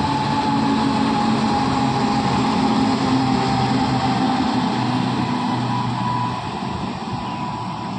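Indian Railways WAP-7 electric locomotive passing with a passenger train: a steady rumble of wheels on rail with a high whine from the locomotive that sags slightly in pitch. The sound eases off a little near the end as the coaches roll by.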